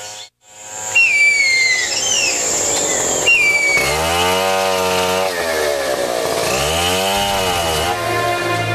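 High, falling bird calls, then a chainsaw that starts up about four seconds in and revs up and down twice.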